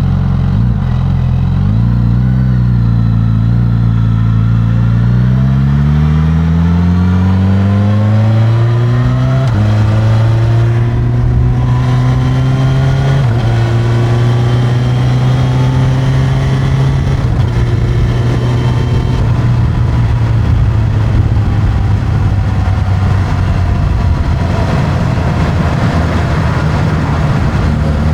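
Suzuki GSX-S1000's inline-four on its stock exhaust, pulling away from low revs with the pitch climbing steadily over several seconds. It shifts up about ten seconds in and again a few seconds later, then runs at a steady speed under rising wind and road noise, and eases back to a lower steady note near the end.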